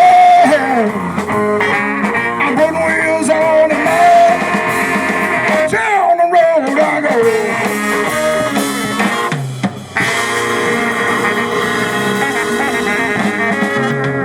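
Live blues band playing an instrumental passage on drum kit, bass and guitar, with lead lines sliding up and down in pitch. Just under ten seconds in the music dips briefly, then comes back with long held notes.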